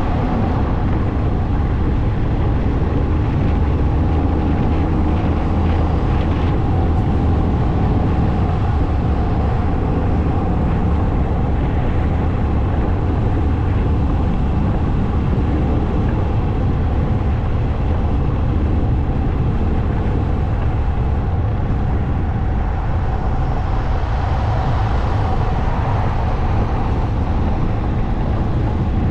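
Motorcycle riding at a steady speed: engine and road noise make a loud, even low rumble that holds without a break.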